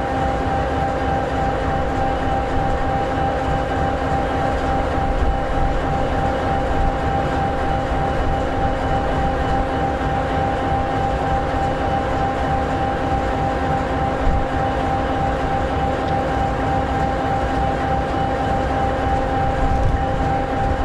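EMD SD60E locomotive's 16-cylinder 710G3B two-stroke diesel idling steadily: an even rumble with a constant whine over it.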